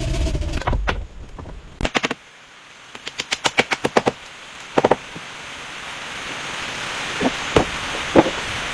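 A series of sharp knocks: a few at first, then a quick run of about ten in a second, then a pair, with a steady hiss building up behind them over the second half.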